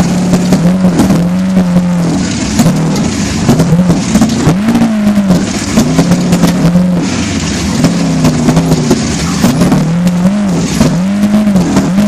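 Trophy truck engine revving up and easing off again and again, roughly once a second, over a steady rushing noise.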